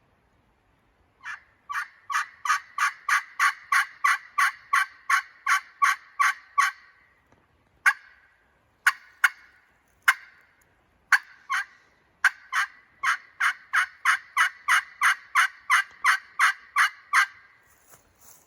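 Wild turkey pot call with a canary wood and padauk laminate body and a stoned aluminum playing surface, run with a striker. It gives a long run of yelps at about three a second, then a few scattered single clucks, then a second long run of yelps.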